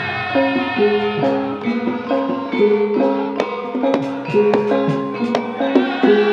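Live Javanese gending music: an instrumental passage, a melody moving in steps between held notes over sharp drum strokes.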